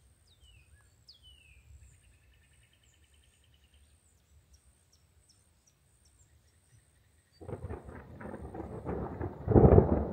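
Quiet swamp ambience with a few falling bird chirps, a short bird trill and a steady high insect whine. About seven seconds in, a sudden loud crackling noise starts and grows to its loudest just before the end.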